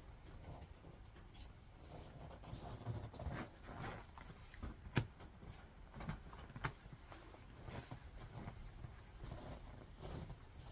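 Horses feeding on hay: faint crunching and rustling, with a few sharp clicks, the loudest about halfway through.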